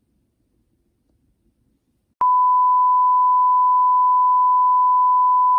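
Near silence, then an electronic beep starts abruptly about two seconds in: one loud, unwavering high tone at a single pitch that holds steady.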